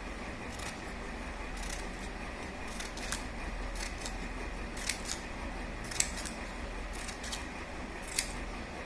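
Scissors snipping paper: about a dozen short, irregularly spaced cuts, fringing a paper strip into small strips.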